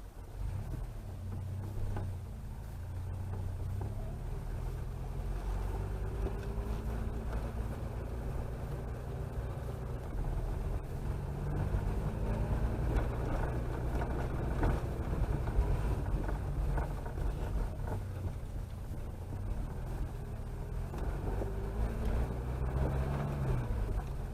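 Chevrolet Chevette's four-cylinder engine running while driving, with steady road noise; the engine note rises and falls a few times as the car speeds up and slows.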